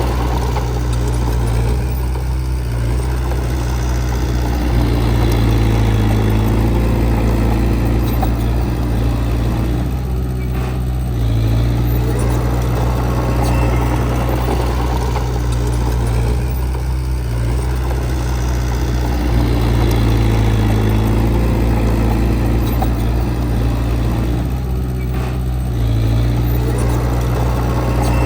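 Diesel engine of heavy earthmoving machinery running continuously. Its note eases and builds again about every seven to eight seconds as the load comes and goes.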